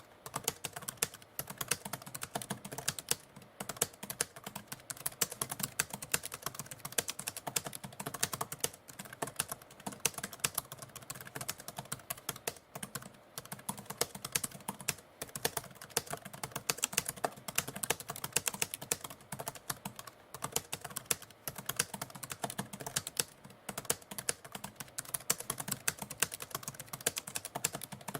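Typewriter keys being struck in a fast, continuous run of clicks, with a few brief pauses.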